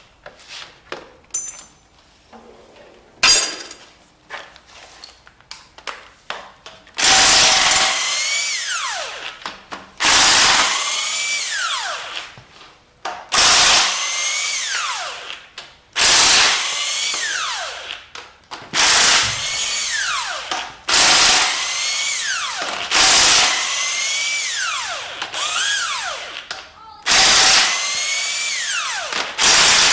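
Handheld power tool run in about ten short trigger bursts, each ending in a falling whine as the motor spins down, while unbolting parts off an engine during a teardown. A few clicks and a sharp knock come before the bursts begin, about a quarter of the way in.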